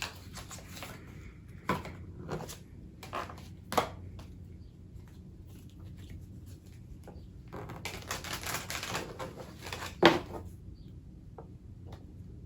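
Tarot cards being handled and shuffled: a few sharp taps and snaps of cards in the first four seconds, a stretch of shuffling about eight seconds in, and a loud snap about ten seconds in.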